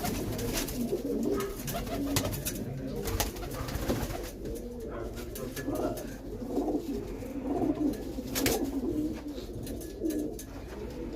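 Domestic pigeons cooing, low wavering coos repeated throughout, with a few short sharp clicks or taps between them.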